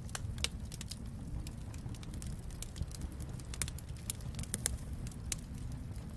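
Fireplace fire crackling: irregular sharp pops and snaps, a few louder ones, over a steady low rumble.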